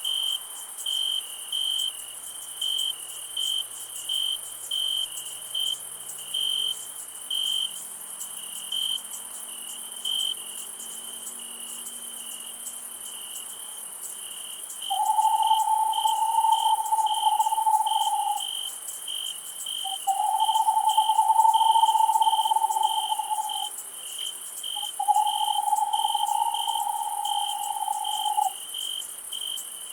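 Night insect chorus: crickets chirping in a steady pulse, about two chirps a second, over a constant high insect hiss. Three long, level, mid-pitched calls of about three seconds each come in about halfway through, and these are the loudest sound.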